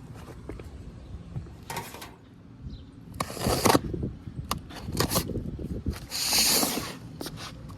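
Hand-tool work noises: scattered clicks and scrapes, broken by three bursts of hiss. The longest and loudest hiss comes about six seconds in and lasts close to a second.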